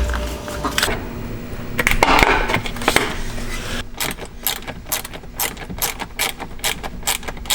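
Hand ratchet wrench clicking steadily, about three to four clicks a second, as mounting bolts are run in. Before that, about two seconds in, there is a short rasping scrape.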